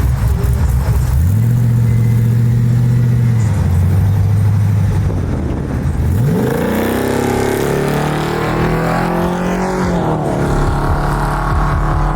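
A car engine being revved. It holds one pitch for a couple of seconds, then revs up sharply about six seconds in and stays high.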